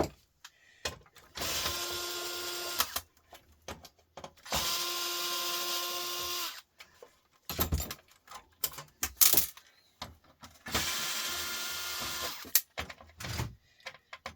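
Cordless electric drill or screwdriver running in three short bursts of a second and a half to two seconds, backing out screws during a computer teardown, its pitch dipping as each burst stops. Clicks and small knocks between the bursts as screws and parts are handled.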